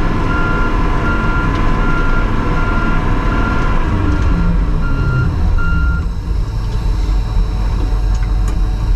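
Backup alarm beeping at an even pace, about one and a half beeps a second, over the low, steady running of the Tucker Sno-Cat's engine as it moves in reverse. The beeping stops about six seconds in, and the engine carries on.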